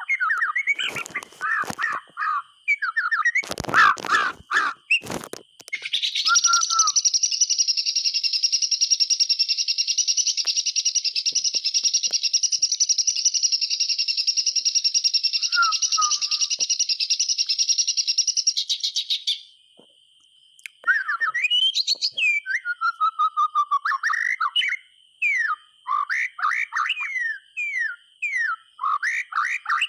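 White-rumped shama singing: quick whistled notes, then a long buzzing trill held for about thirteen seconds, then a run of fast swooping whistles. A few knocks come in the first few seconds.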